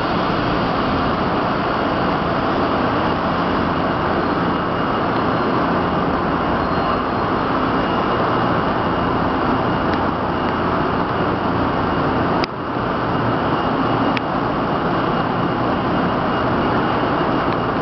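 A 0 Series Shinkansen train at the platform, a loud steady mechanical rumble and hiss with a faint high steady tone. Two short clicks come about a second and a half apart near the end.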